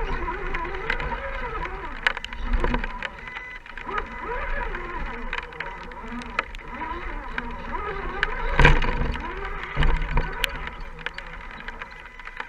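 Electric motor and geared drivetrain of an Axial SCX10 RC rock crawler whining, the pitch rising and falling in short spurts with the throttle. Scattered clicks and knocks, the loudest one near the middle.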